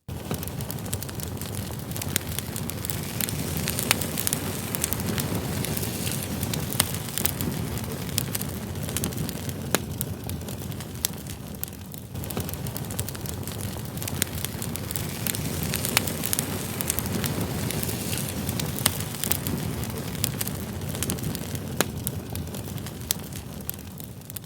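Wood campfire burning: a steady low rush of flames with frequent sharp crackles and pops from the burning logs. The sound dips briefly about halfway through and fades out near the end.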